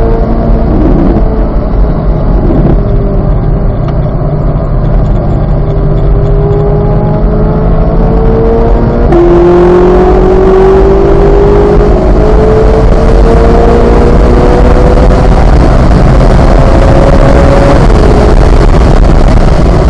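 2023 Chevrolet Corvette Z06's 5.5-litre flat-plane-crank V8 pulling hard at full throttle, its pitch climbing steadily, dropping sharply on an upshift about nine seconds in, then climbing again before falling off near the end. Heavy wind and road noise run under it.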